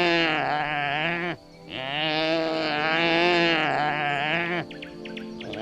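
Antelope bleating: two long, wavering calls, the second about twice as long as the first, with another call starting near the end.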